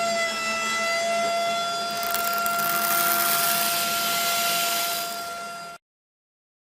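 A steady high-pitched tone with overtones, joined by a hiss in the middle, that cuts off abruptly to dead silence near the end.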